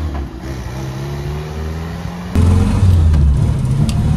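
1947 Singer Super 10's 1,172 cc four-cylinder overhead-valve engine pulling away, its pitch rising slowly as it gathers speed. About two seconds in it jumps to a louder, steady engine drone heard inside the cabin.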